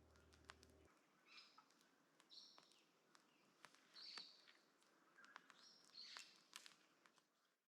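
Faint bird calls: short high chirps about once a second, with scattered sharp clicks. A low hum cuts off about a second in.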